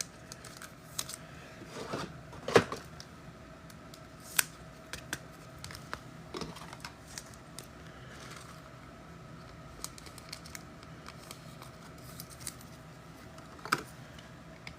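Scattered light clicks and snaps of trading cards and foil packs being handled and sorted by hand, with a few sharper snaps about 2.5 s in, 4.5 s in and near the end.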